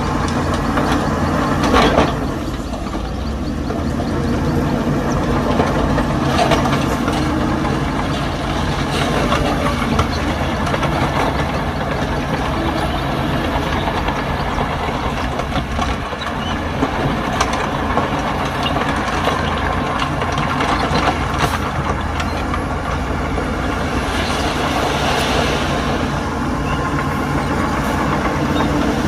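Heavy diesel earthmoving machinery, bulldozer and dump truck engines, running steadily, with a few short knocks over the drone.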